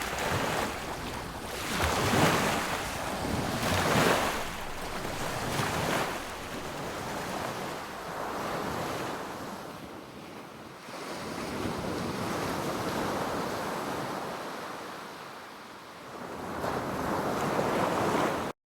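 Sea waves breaking on a beach, the surf swelling and receding in a run of surges, several in quick succession and then slower, longer washes. The sound cuts off abruptly near the end.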